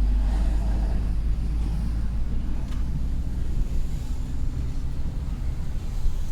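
Heavy truck driving, a steady low rumble of engine and road noise.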